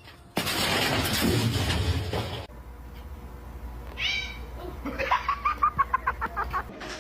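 A domestic cat vocalizing: one meow-like call about four seconds in, then a rapid run of short calls. Before it, about two seconds of loud noise.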